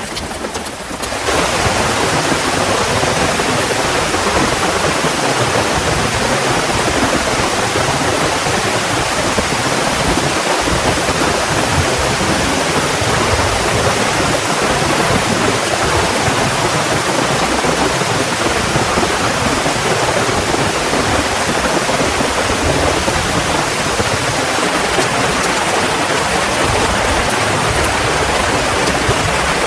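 Heavy rain pouring down steadily, a dense even hiss that grows louder about a second in and then holds.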